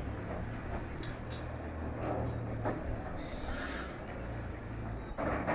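Tourist train standing and manoeuvring at a station: a steady low hum, with a brief hiss about three seconds in and a few soft knocks.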